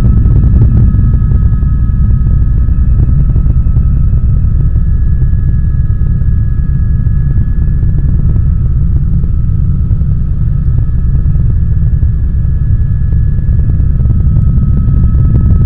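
Helicopter in flight heard from inside the cabin: a loud, steady low rotor and engine drone with a thin high whine held over it.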